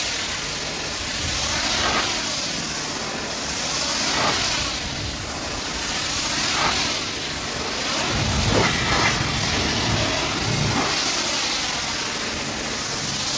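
High-pressure washer jet spraying a truck's surface: a steady hiss that swells and eases about every two seconds as the spray is swept back and forth, with a deeper rumble about two thirds of the way through.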